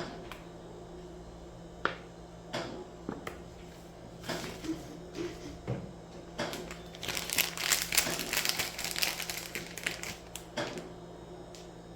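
Crinkling and crunching handling noises with scattered clicks and knocks, densest for about three seconds past the middle.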